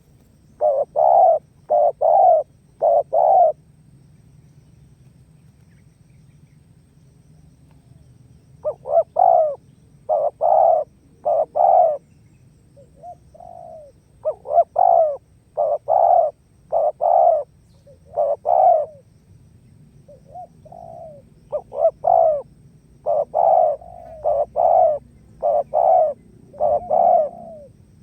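Spotted dove (tekukur) cooing: phrases of several short, loud coos, one after another, separated by pauses of a few seconds.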